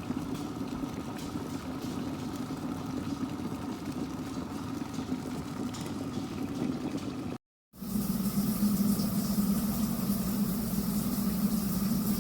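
Glass electric kettle heating water: a steady low hum and rumble. It cuts out briefly about seven and a half seconds in, then comes back louder.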